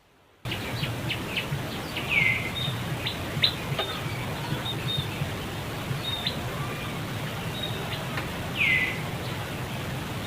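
Short high chirps and two brief squealing calls falling in pitch, about two seconds in and near the end, over a steady outdoor background noise that starts abruptly.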